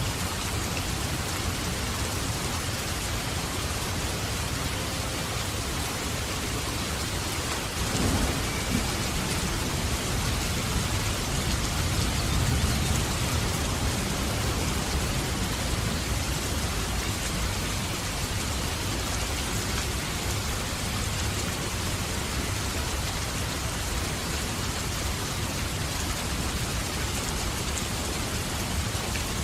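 Steady heavy rain with a crack of thunder about eight seconds in, followed by several seconds of low rolling rumble.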